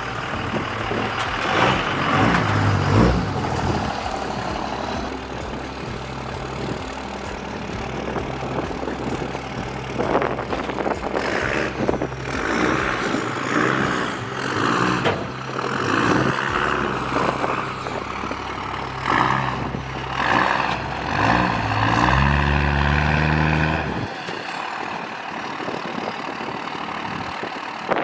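Diesel truck engine running steadily, then revving up for a couple of seconds near the end before cutting off suddenly.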